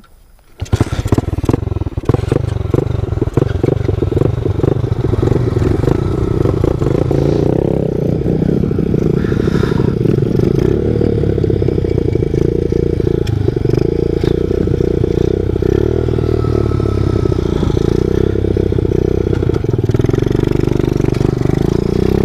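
Pit bike engine running under way, coming in about half a second in with the revs rising and falling for the first few seconds, then running steadily at speed.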